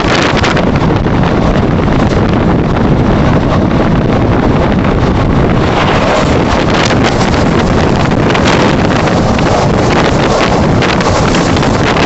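Wind buffeting the microphone at the open door of a moving ICF passenger train, over the steady rumble of its wheels on the track. From about halfway through, another passenger train passes close on the next track, adding a quick rattle.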